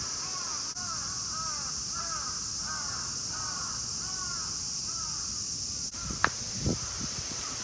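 A bird calling over and over, about two short arched calls a second, stopping near the end, over a steady high-pitched drone of cicadas. Two short knocks come near the end.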